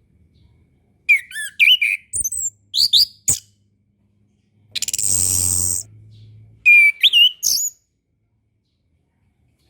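Chestnut-capped thrush (anis kembang) singing: short phrases of quick, swooping high whistled notes, with a harsh buzzy note in the middle, then stopping about two seconds before the end.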